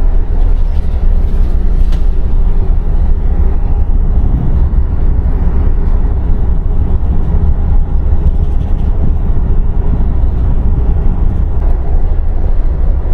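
Passenger train running, heard from inside a sleeper roomette: a steady low rumble of the moving car.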